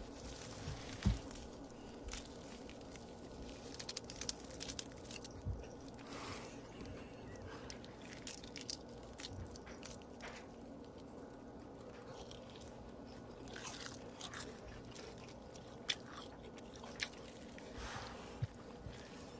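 A mukbang eater biting and chewing food close to the microphone, with scattered short crunches and smacks over a steady low hum.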